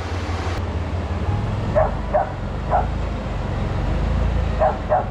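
A four-wheel drive's engine idling with a steady low hum that drops a little deeper about a second in, while a dog barks five short times, the loudest sounds here.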